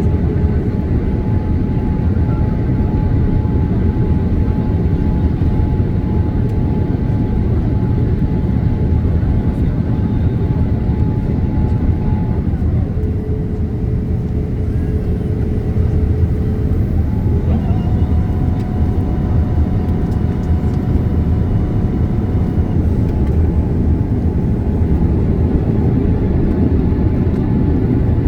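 Steady cabin roar of a Boeing 787 Dreamliner in flight, heard from inside the passenger cabin. Thin engine tones ride on the roar: one drops in pitch about twelve seconds in, and higher tones come in about five seconds later.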